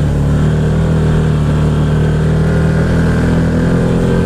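ATV engine running at a steady speed while riding, a continuous even hum with no changes in pitch.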